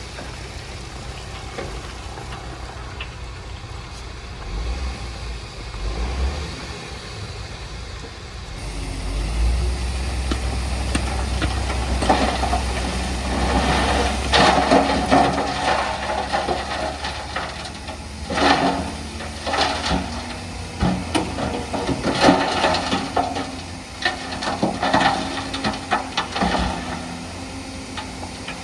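Diesel engine of heavy earthmoving machinery running, growing louder about a third of the way in. From then on it carries repeated rattling and clanking.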